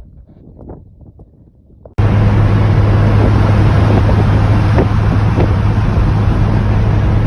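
Old truck driving at speed: loud steady wind and road noise with a constant low engine drone. It starts abruptly about two seconds in, after a quieter stretch.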